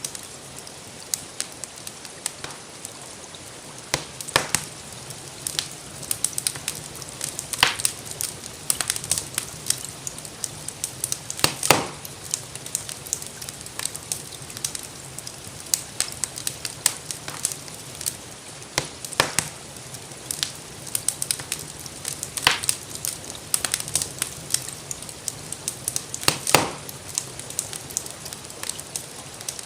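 Wood fire crackling in a fireplace: frequent small snaps, with about six louder pops spread through, over a steady hiss of rain.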